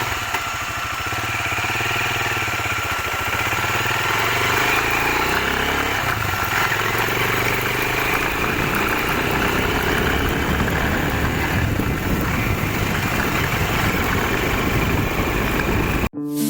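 Chinese Racer Panther motorcycle engine running steadily, its sound growing slightly louder over the first few seconds. It cuts off suddenly near the end.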